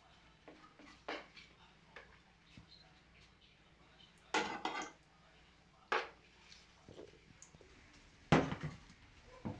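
Kitchen utensils knocking and clattering against cookware: about five separate knocks with quiet between them, the loudest near the end.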